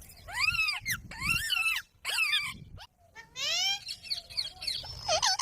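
Parrot calling: three short arching squawks, then a longer rising call about three seconds in, and a few more quick calls near the end.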